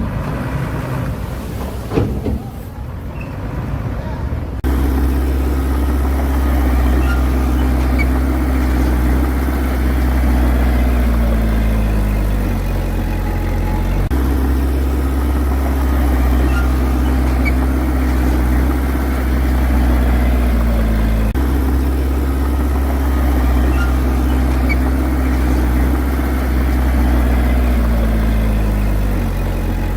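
Heavy diesel earthmoving engine running steadily and strongly. Its pitch sags twice as the revs drop, and it comes back up abruptly. Before it starts suddenly about four and a half seconds in, there is a rougher, noisier engine-and-wind sound.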